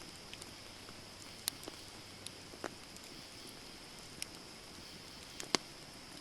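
Wood campfire burning, with sparse irregular crackles and pops over a steady high hiss; one sharp pop near the end is the loudest.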